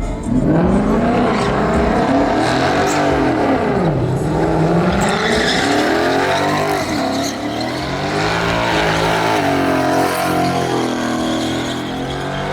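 Truck engine revving hard in a burnout, its pitch swinging up and down over and over, over a steady hiss of spinning tires.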